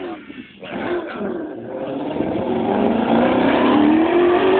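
Maserati race car's engine revving hard under acceleration, its pitch rising over the last second or so.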